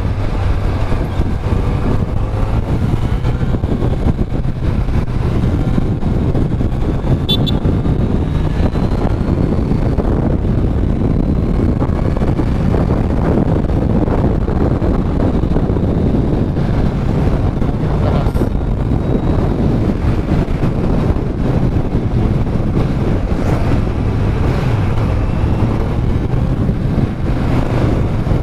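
Kawasaki Z900's inline-four engine running under way through its stock exhaust, not very loud, with wind rushing past the microphone; the engine note rises and falls gently without a sharp rev.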